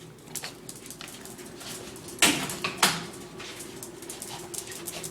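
Pet dog barking twice, about two seconds in, the two barks roughly half a second apart, each falling in pitch.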